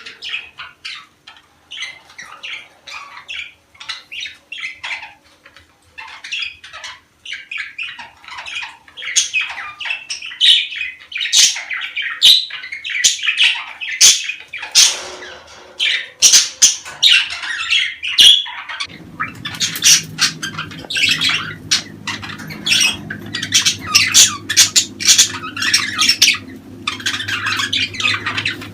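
A flock of budgerigars chattering and warbling: a dense run of short chirps and squawks that grows louder about a third of the way in. About two-thirds through, a low steady hum joins underneath.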